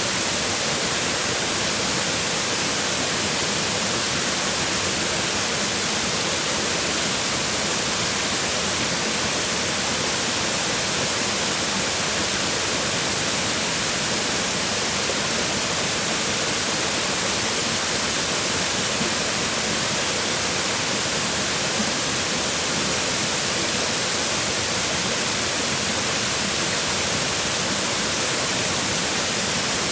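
Waterfall: water falling and splashing onto rocks, a steady, even rushing hiss.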